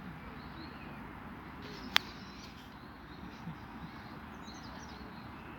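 Faint outdoor ambience with a few soft bird chirps, broken by one sharp click about two seconds in.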